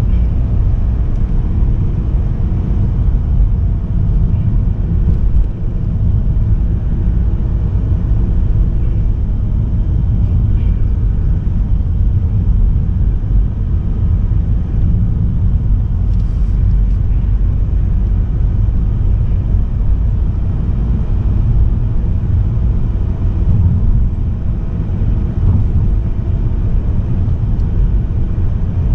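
Car driving at a steady speed: a loud, steady low rumble of road, tyre and drivetrain noise.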